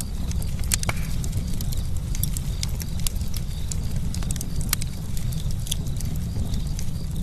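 Campfire crackling: irregular sharp pops and snaps, a few louder ones, over a steady low rumble.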